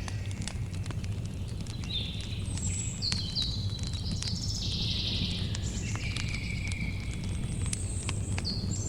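Campfire crackling with frequent sharp pops over a low steady rumble of the flames, while birds call in short high chirps, several of them sliding in pitch, most densely in the middle of the stretch.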